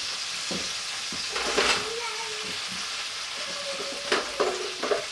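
Meat sizzling steadily in a hot roasting dish on a stovetop burner, with a few light knocks as potato pieces are put into the pan.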